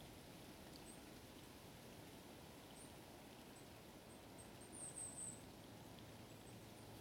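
Near silence: faint outdoor background noise with a few short, very high chirps of a small bird, the longest cluster about five seconds in.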